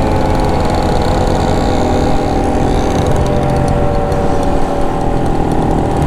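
Honda Monkey 125's single-cylinder four-stroke engine running at a fairly steady speed while the bike is ridden, its pitch drifting only slightly.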